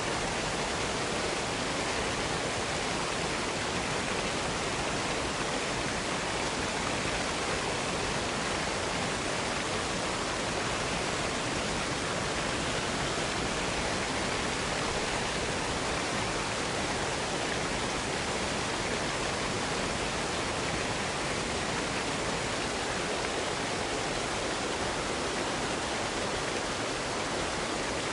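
Waterfall pouring into a small box canyon: a steady, even rush of falling water that does not change.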